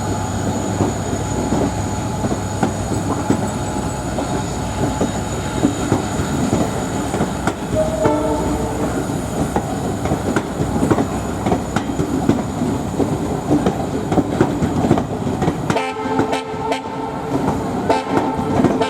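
Express passenger coaches rolling past behind a diesel locomotive, wheels clattering steadily over the rail joints. A train horn sounds briefly about eight seconds in. The deep rumble falls away near the end as the train draws off.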